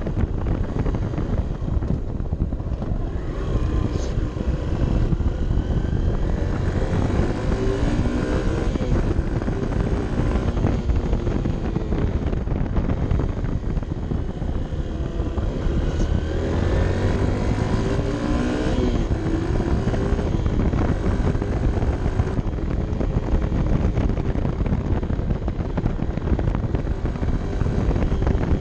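Honda CB 125 F's single-cylinder four-stroke engine running on the move under heavy wind rush, its note gliding up and down twice, about a quarter of the way in and again past the middle.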